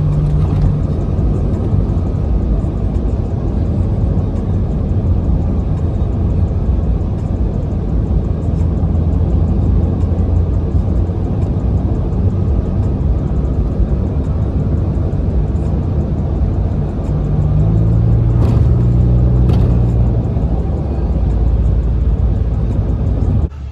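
Car engine running with a deep, steady exhaust rumble that grows louder for a few seconds near the end, then cuts off abruptly.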